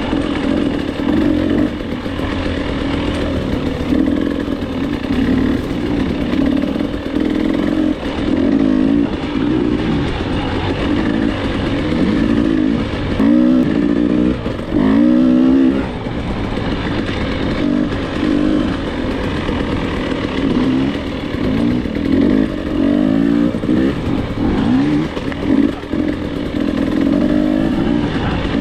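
Dirt bike engine being ridden hard, revving up and down again and again, its pitch climbing and dropping with the throttle and gear changes.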